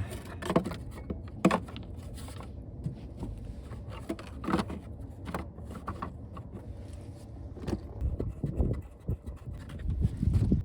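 Plastic engine cover on a 2000 Ford F-150 being set back in place over the engine: scattered knocks, clicks and scrapes as it is handled and pressed down, with a few louder thumps near the end.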